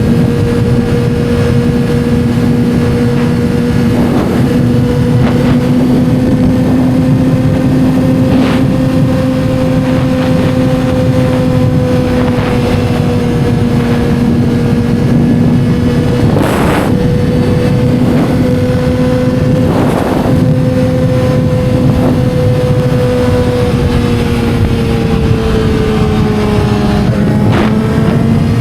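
2007 Yamaha R6's 600 cc inline-four engine running at steady, fairly high revs while riding, over wind and road noise. The pitch holds nearly level, with a few brief surges of noise, and the revs ease off slightly near the end.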